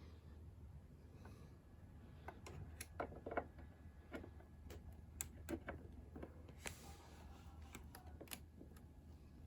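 Scattered light clicks and taps at irregular intervals over a faint steady low hum, a few of them louder around three seconds in and again near seven seconds.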